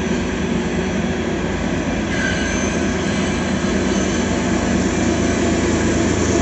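Loaded coal train's hopper cars rolling past, a steady rumble of steel wheels on rail with a brief faint wheel squeal about two seconds in, heard from inside a car.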